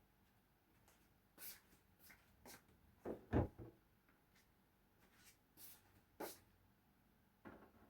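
Scattered light clicks and knocks of kitchen handling, with one louder, duller thump a little over three seconds in.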